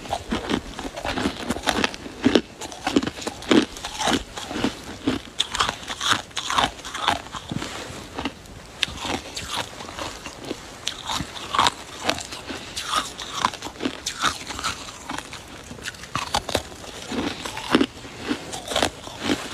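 Close-up chewing of crunchy ice or snow: rapid, irregular crunches and crackles, bite after bite, with no pause.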